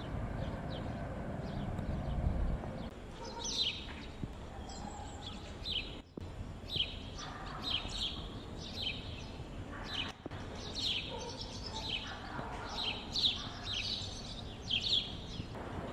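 Small songbirds chirping and twittering in many short, quick calls over a low outdoor rumble that is heaviest in the first few seconds. The sound breaks off for an instant twice.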